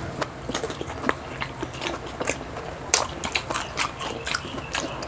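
Close-miked mukbang eating: chewing and biting into grilled food, an irregular run of sharp clicks and crunches, the loudest about three seconds in.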